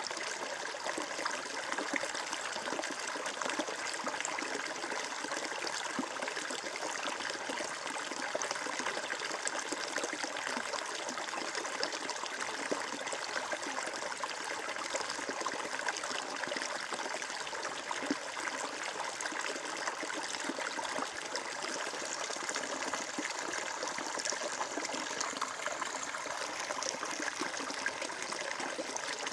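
Flowing water of a stream trickling and burbling steadily, with no change.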